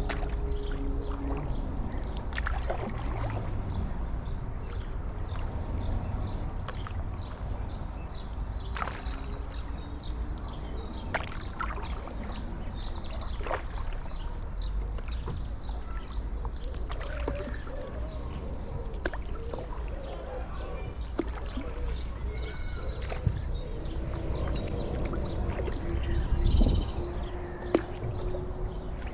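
A small songbird singing in two spells of fast, high-pitched trilling phrases, over a steady low rumble of wind and water with occasional small splashes.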